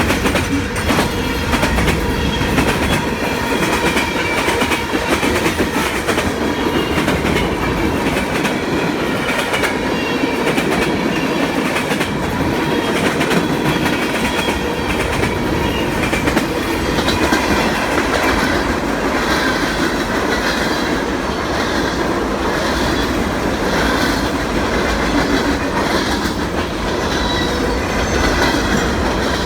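Freight train cars rolling past, their wheels clacking steadily over the rail joints, with a faint high wheel squeal wavering in and out.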